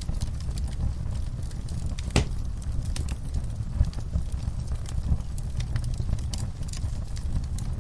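Wood fire burning in a fireplace: a steady low rumble of flames with scattered crackles, pops and snaps from the burning logs, the loudest pop about two seconds in.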